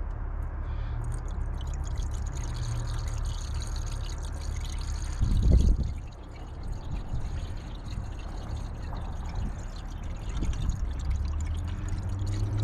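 Water being poured into a car's cooling system, a steady pouring trickle, with one louder knock about five seconds in.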